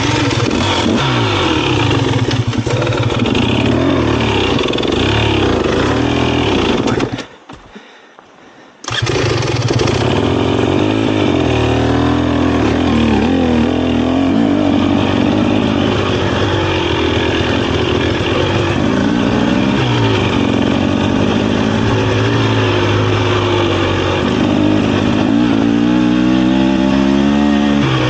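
Dirt bike engine riding a trail, revs rising and falling as the throttle opens and closes. It drops out for about a second and a half some seven seconds in, and near the end the revs climb in several quick rising sweeps.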